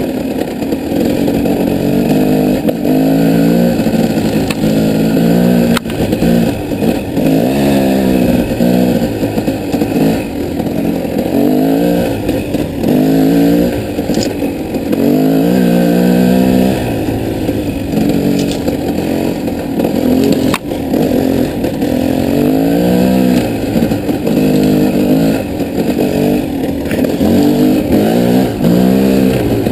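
Single-cylinder off-road engine under way, its pitch rising as it revs up and dropping as it eases off, over and over. Two sharp knocks stand out, about six seconds in and again about twenty seconds in.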